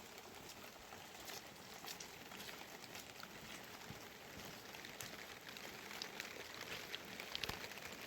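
Rain falling: a faint steady hiss with scattered drops ticking.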